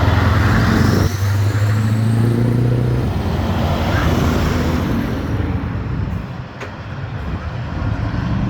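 Old truck engine running as it drives by, a low steady engine note that fades about six seconds in and builds again near the end.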